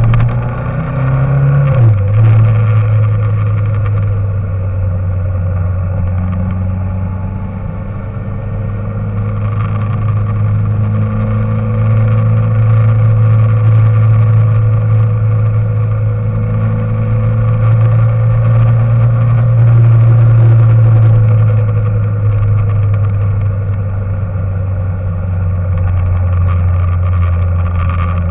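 Engine running steadily with a loud low drone, its pitch dipping briefly about two seconds in.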